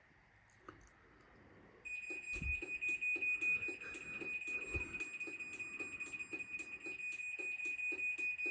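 Craftsman garage door opener's warning beeper beeping rapidly and steadily from about two seconds in, the timer-to-close alert that sounds while the opener lights blink before the door closes. Two dull thumps come under the beeping early on.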